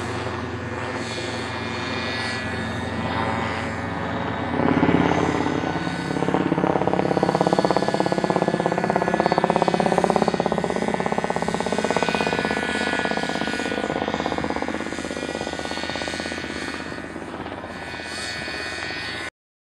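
Helicopter flying, its rotor and engine running steadily; it grows louder about five seconds in, is loudest in the middle, eases off and then cuts off suddenly near the end.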